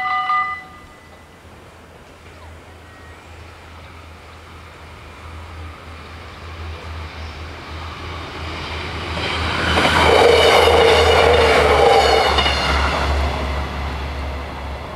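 Level-crossing bells ring and stop within the first second as the half-barriers come down. A Stadler GTW diesel multiple unit then approaches and passes, with a low engine drone under the rail noise, loudest about ten to twelve seconds in and fading near the end.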